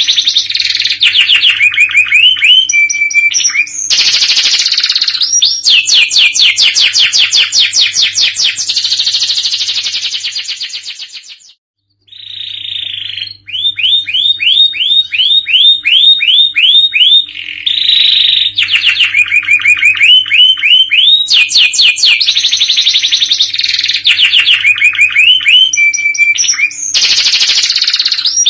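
Domestic canary singing a loud, fast song of rapid trills and rolling repeated notes, with a short break about halfway through.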